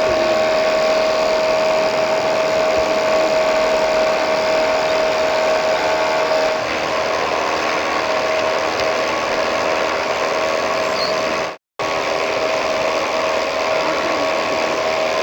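Steady high whine of the small electric motors of RC construction models, running continuously with a strong steady tone that drops away about six and a half seconds in. The sound cuts out completely for a moment about twelve seconds in.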